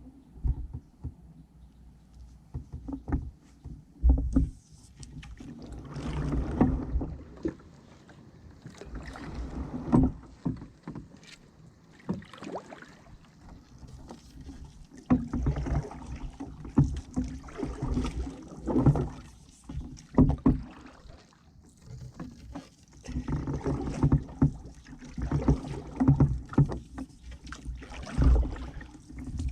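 Ash wooden paddle stroking through the water beside a solo canoe: repeated swishes and splashes as each stroke is pulled, with dripping between strokes and a few sharp knocks.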